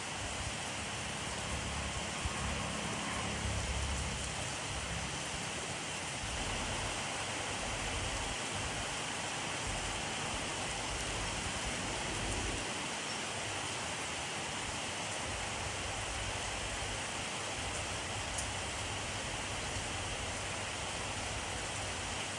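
Steady rainfall, a dense even hiss, with a low rumble underneath that swells and fades.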